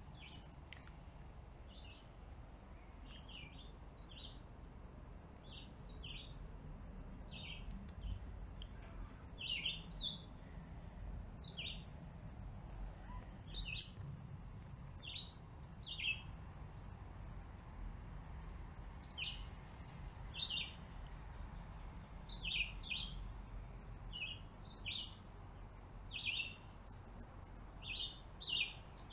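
Small birds chirping in the trees: short high chirps, singly and in twos and threes, every second or so, with a quick buzzy trill near the end. A low steady rumble runs underneath.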